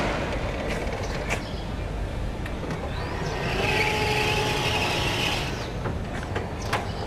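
BT RRE-2 electric reach truck in operation: about three and a half seconds in, its electric motor whines steadily for about two seconds with a hiss, amid scattered clicks and knocks.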